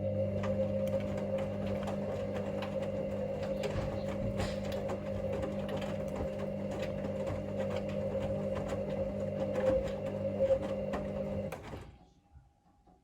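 Hoover Link washing machine tumbling its drum in the main wash: the motor runs with a steady hum and irregular clicks from the load, then stops about a second before the end.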